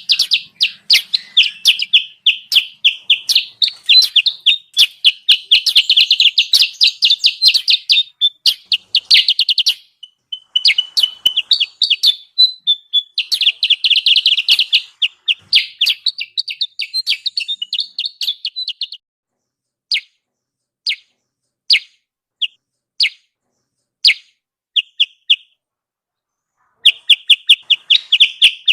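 Kutilang sutra lure call: fast, high chirping trills in long runs. About two-thirds through they thin out to scattered single chirps, then a fast trill starts again near the end.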